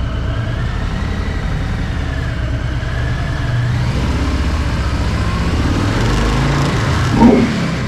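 Harley-Davidson Low Rider S V-twin engine running under way, its pitch rising and falling with the throttle, with a brief louder burst near the end.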